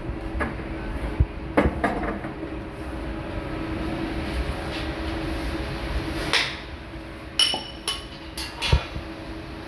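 Metal knocks and clanks from workshop work, a few scattered in the first two seconds and a quick cluster in the last two and a half seconds, over a steady machine hum.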